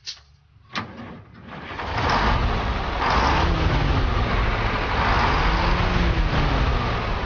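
1996 Chevrolet S10 pickup's six-cylinder engine running loudly, its pitch rising and falling, with a heavy rushing noise over it. Two sharp clicks come just before it builds up.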